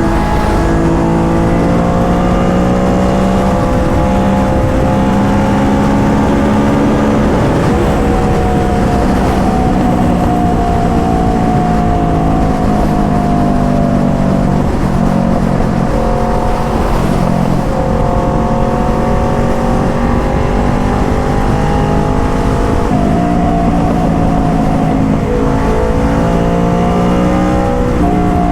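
Motorcycle engine running under way, its pitch rising and falling through several gear changes, over a steady rush of wind on the microphone.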